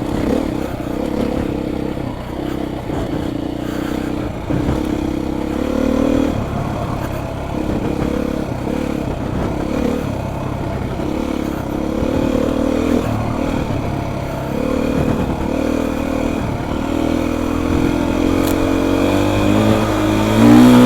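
Beta 430 RR four-stroke single-cylinder dirt bike engine running under load on a trail ride, its pitch rising and falling with the throttle and climbing near the end. Scattered knocks and rattles come from the bike over rough ground.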